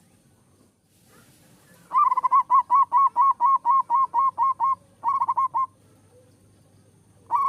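Zebra dove (perkutut) singing: a rapid run of over a dozen short cooing notes, about five a second, then a brief quicker run of a few notes, and another run starting near the end.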